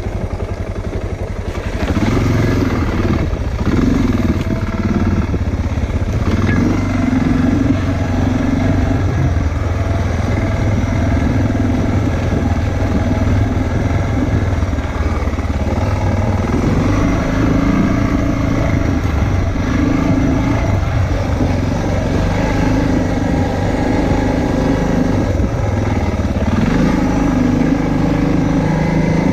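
Motorcycle engine running while riding, its pitch stepping up and down with throttle and gear changes. It gets louder about two seconds in.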